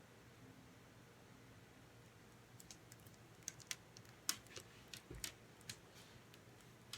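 Near silence, then a quick irregular run of light clicks and taps from about two and a half to six seconds in, with one more click near the end.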